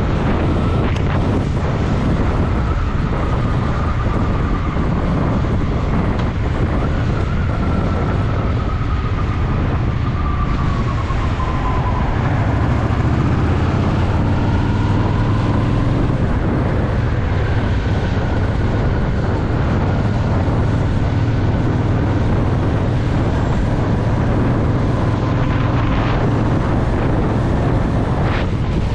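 Honda Shadow VT750's V-twin engine running steadily under way, with a continuous low rumble and some wind noise on the microphone.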